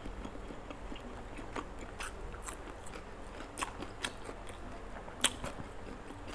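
Close-miked mouth sounds of a person biting and chewing roasted chicken: soft wet clicks and small crunches, with one sharper click about five seconds in.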